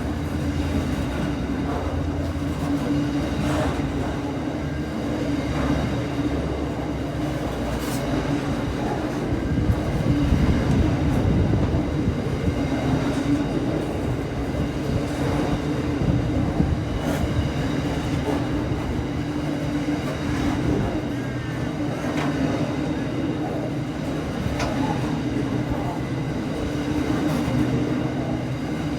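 A train running, with a steady hum over a low rumble and a few sharp clicks scattered through.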